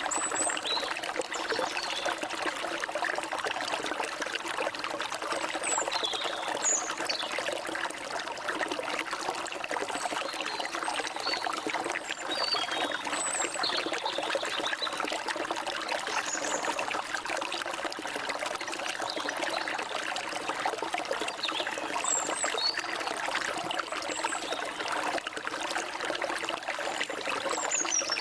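Stream water flowing and trickling steadily, with short high bird chirps and quick falling whistles now and then over it.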